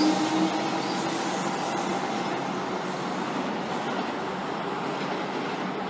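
Comeng electric suburban train pulling away and receding. Its motor whine fades out in the first couple of seconds, leaving a steady running noise that slowly dies down.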